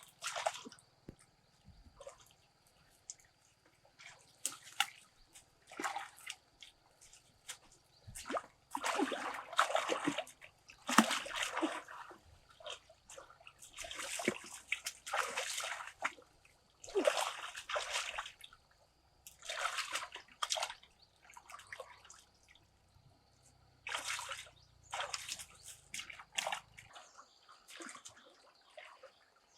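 Water splashing and sloshing in irregular bursts of a second or two, with short splashes between them.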